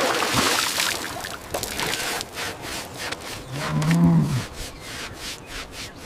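A bull lowing once, a low call of about a second near the middle, over a rough, repeated scraping or rubbing noise.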